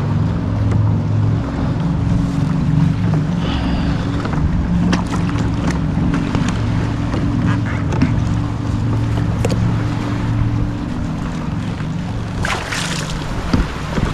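Wind rumbling on the microphone and water sloshing against a kayak's hull, with scattered small knocks and a louder splash near the end.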